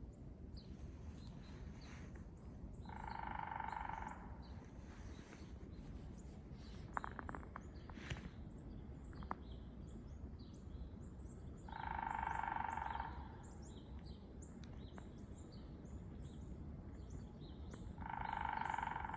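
Woodpecker drumming in three bursts of about a second each, a few seconds apart, each with a ringing tone, very loud. Small birds chirp faintly throughout over a low background rumble.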